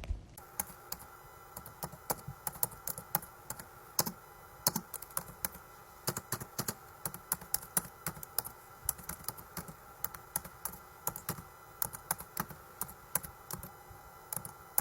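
Rapid, irregular light clicks, several a second, over a faint steady hum.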